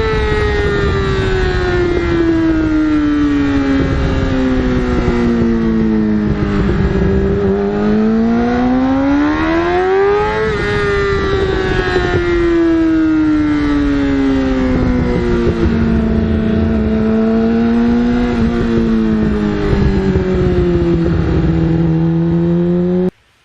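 Yamaha R6 inline-four running through an Akrapovic full exhaust. The revs fall steadily, climb again to a peak about ten seconds in, then drop slowly with a couple of small steps, and the sound cuts off abruptly near the end.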